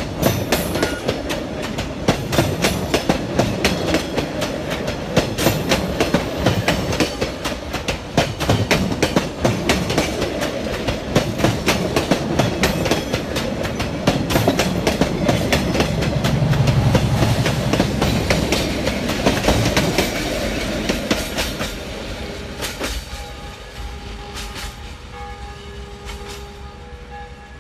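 Passenger train coaches rolling slowly past close by: the wheels clack over the rail joints over a steady low rumble. The sound fades away over the last few seconds.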